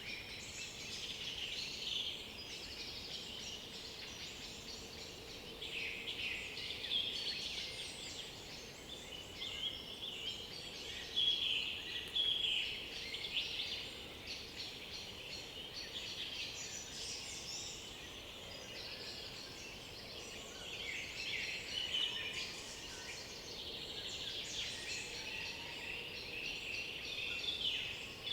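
Dawn-chorus-style mix of several songbirds singing over one another, with short high phrases and trills overlapping throughout.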